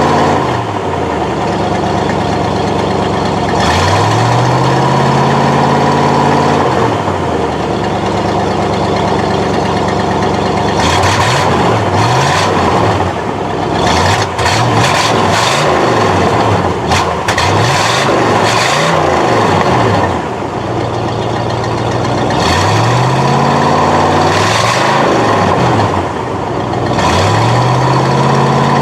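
1969 Buick Skylark Custom's two-barrel Buick 350 V8 running and being revved over and over, its pitch rising and falling with each blip of the throttle. The revs go up and down slowly near the start and the end, and in quick repeated blips through the middle. The engine has an exhaust leak at the passenger-side exhaust manifold.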